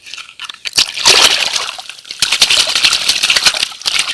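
Water sloshing and splashing as a small muddy toy is swished and rinsed by hand, starting about a second in and going on until near the end.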